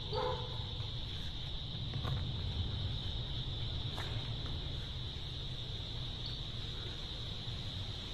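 Steady chorus of crickets, a continuous high trill, over a low rumble, with a couple of faint clicks.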